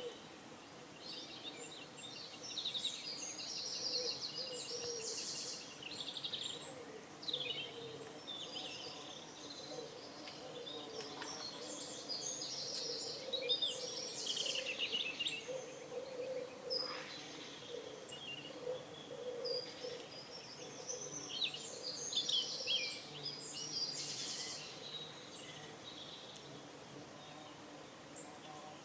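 Small songbirds chirping and trilling in repeated high phrases, over a continuous low warbling coo of pigeons.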